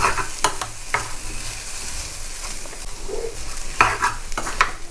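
Spiced chicken and onion filling sizzling in a pan as it is sautéed, with a few sharp knocks and scrapes of a stirring utensil against the pan.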